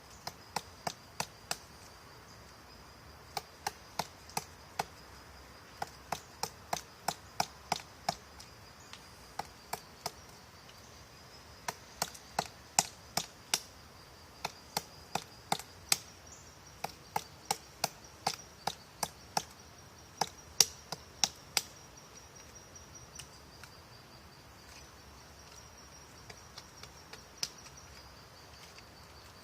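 Woodpecker pecking at wood: sharp single taps in irregular runs, a few a second, with short pauses between runs and only scattered taps near the end.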